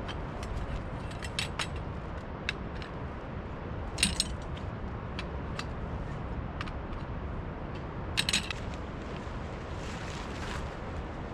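Light clicks and clinks of small hard objects, with two short louder clattering clusters about four and eight seconds in, over a steady low rumble.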